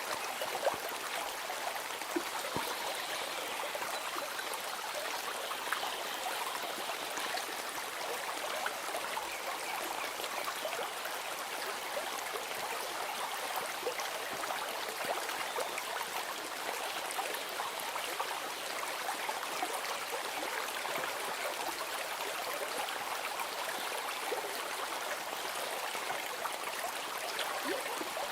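Running stream babbling and trickling, steady and unbroken.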